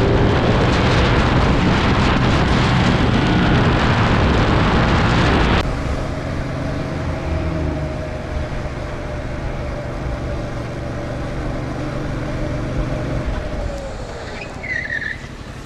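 Motorcycle riding at speed, a loud rush of wind noise on the camera microphone over the steady engine. About five and a half seconds in the rush drops away sharply, leaving a quieter steady engine note with a whine. Near the end the pitch falls as the bike slows.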